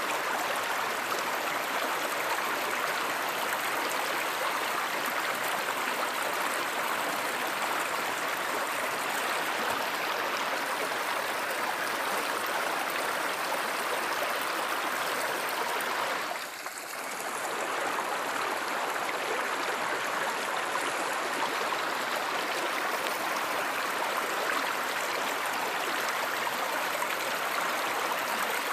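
Steady rushing of a flowing stream, with a brief dip in level a little past halfway through.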